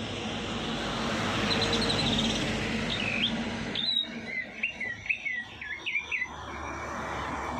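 Songbird chirping: a few high notes over a steady hiss in the first half, then a quick run of short chirps about four seconds in.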